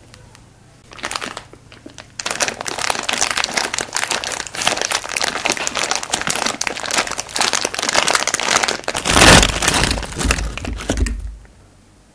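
Frozen cherries crunched and chewed close to the microphone: a short crunch about a second in, then dense icy crackling, loudest with heavier bites a little before the end, where it stops.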